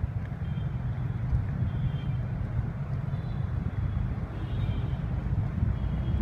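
Steady low outdoor rumble, with a few faint, short high tones over it.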